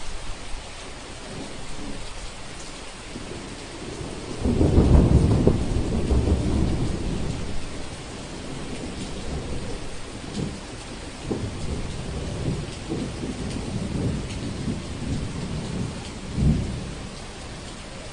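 Thunderstorm: steady rain with a loud, deep roll of thunder breaking about a quarter of the way in and fading slowly, then further crackling rumbles and a short low clap near the end.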